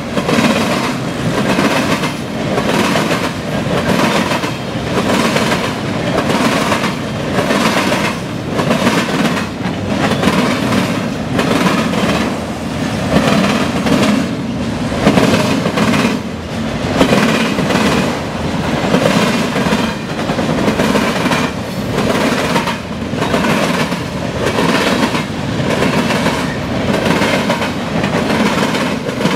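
Freight train passing close: a loud, steady rumble of rolling cars with a regular clacking of wheels over rail joints, repeating a couple of times a second.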